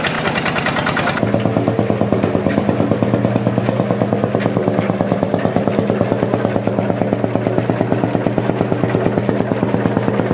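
Porsche-Diesel tractor's air-cooled diesel engine running steadily with an even, pulsing beat. About a second in, its brighter upper sound drops away and it settles into a steady, lower-sounding run.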